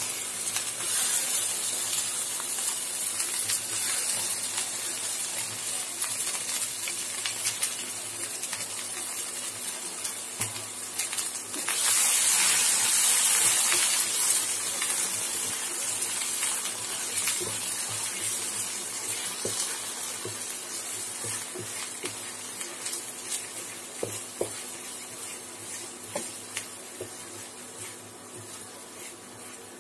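Ground onion chutney paste sizzling in hot oil in a nonstick frying pan as it is stirred with a wooden spatula, with light scraping and tapping of the spatula. The sizzle swells for a couple of seconds about twelve seconds in, then gradually dies down.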